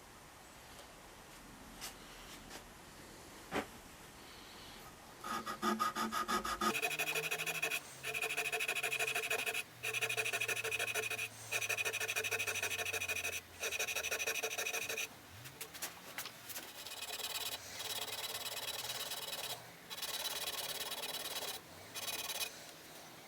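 Rapid back-and-forth rubbing strokes, as of polishing or scrubbing by hand, starting about five seconds in and going in bursts of one to two seconds with short pauses between them.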